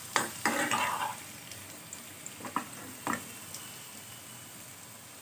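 Potato wedges sizzling steadily in hot mustard oil in a non-stick pan while a spatula turns them, with several scrapes and knocks of the spatula in the first second and a few more about two and a half to three seconds in.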